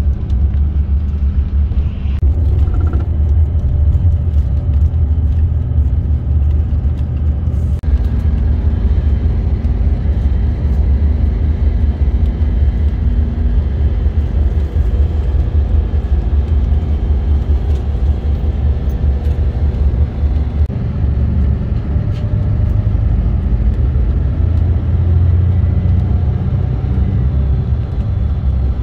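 Intercity bus on the move: a steady low rumble of engine and road noise, with faint engine tones above it that shift slightly in pitch.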